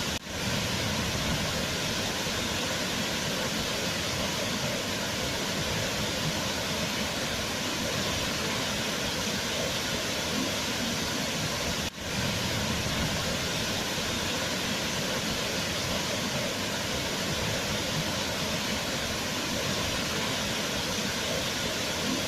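Waterfall: a steady, even rush of falling water, dipping briefly just after the start and again about halfway through.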